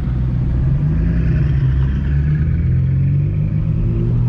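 Straight-piped BMW M4 F82's twin-turbo inline-six exhaust droning steadily at low revs while driving, pitch shifting only slightly.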